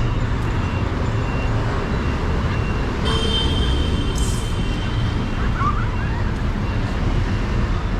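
City street traffic rumbling steadily. About three seconds in a high-pitched tone starts and holds for a few seconds, with a short hiss a second later.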